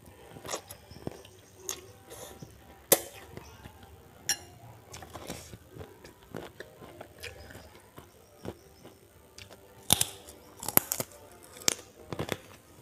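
Close-miked eating: chewing with wet mouth clicks, then a cluster of sharp crunches from biting into puffed prawn crackers about ten seconds in.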